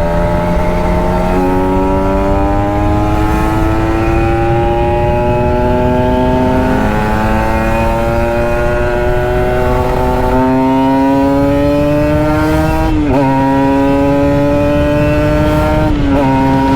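Kawasaki Ninja 150 RR two-stroke single-cylinder engine and exhaust pulling under load while riding, its note climbing steadily, with a short break and jump in pitch every few seconds as it shifts gear.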